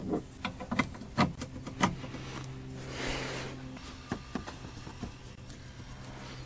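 Clips being pushed in and snapping into place: a string of sharp clicks and taps in the first two seconds, then a few more about four to five seconds in, over a steady low hum.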